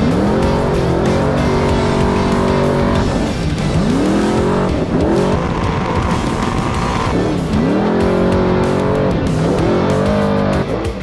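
Off-road race truck engine at high revs, its pitch dropping and climbing back three times as the throttle comes off and back on, with steady high running between, under a music bed.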